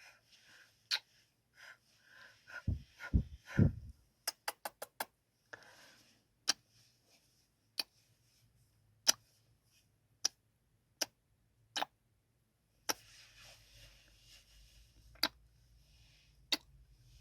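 Close-microphone ASMR kissing: wet lip smacks and kisses. A few low bumps come just before a quick run of smacks about four seconds in, then single kisses every second or so.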